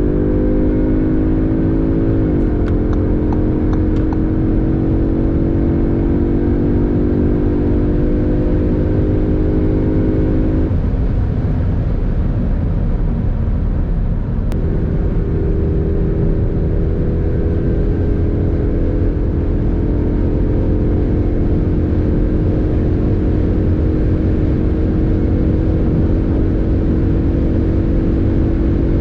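Audi S3's 2.0-litre turbocharged four-cylinder with an Akrapovic exhaust pulling under load, its note rising, then dropping sharply at an upshift about two seconds in and holding steady at speed. The engine note fades out for a few seconds near the middle and comes back steady, over constant low road and wind rumble.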